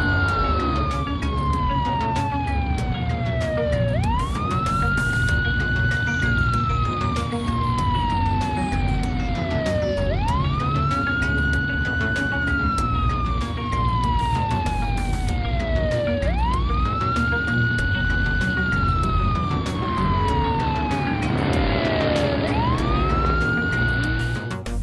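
Emergency-vehicle siren in a slow wail. Each cycle rises quickly and then slides slowly down over about four seconds, repeating four times with a fifth beginning near the end, over background music with a beat.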